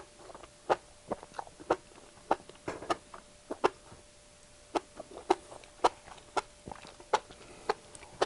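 Wet mouth sounds of a person chewing and slurping spicy-sauced enoki mushrooms: irregular smacking clicks, about two a second.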